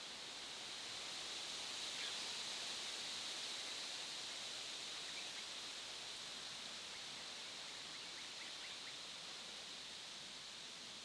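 Steady outdoor hiss of a mountain forest, strongest in a high band that swells about two seconds in and then slowly eases. A few faint, short bird notes come through, including a quick little run of them near the end.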